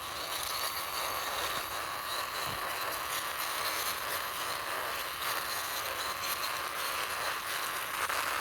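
Plastic wheels of a toy vehicle rolling over the ground as it is pushed along by hand: a steady rolling hiss.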